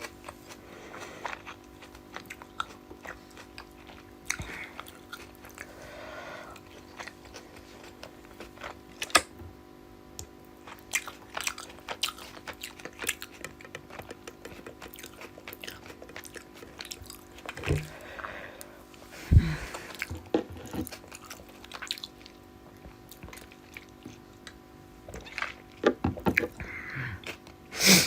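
Close-up chewing, biting and mouth sounds of someone eating rice and rohu fish curry, with many short wet clicks and smacks.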